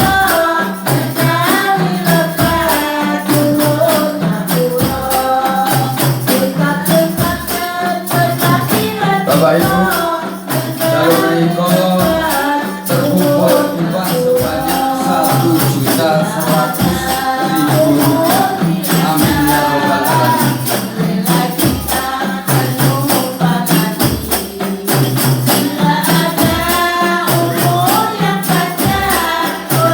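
Hadroh ensemble playing: rebana frame drums keep a steady rhythm with deep bass strokes and jingling, under voices singing a devotional melody together.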